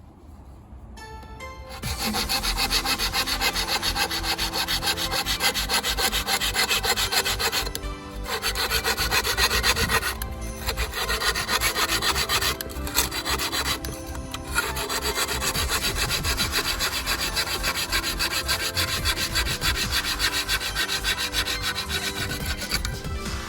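Hand saw cutting through bamboo in quick, steady strokes, with a few short pauses.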